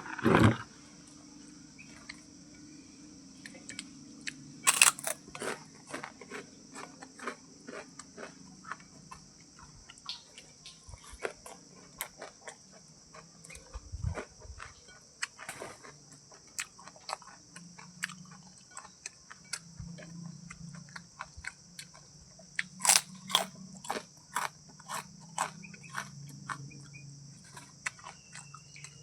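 Irregular crunching and chewing of food by an animal at its meal, sharp clicks coming every fraction of a second with louder ones about five seconds in and near twenty-three seconds. A steady high chorus of crickets runs underneath.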